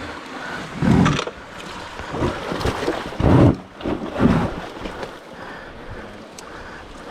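Electric off-road motorcycle riding over wet, rough trail, heard from an on-board camera: a steady rush of wind on the microphone with three heavy surges of noise, about one, three and a quarter, and four and a quarter seconds in.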